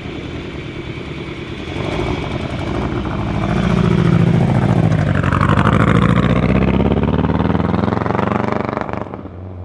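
A vehicle's engine growing louder as it comes closer and passes, then fading away near the end.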